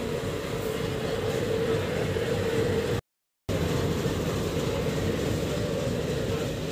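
Steady low rumble with a constant droning hum from a train moving alongside a diesel locomotive and a generator car on the next track. The sound cuts out completely for about half a second, three seconds in.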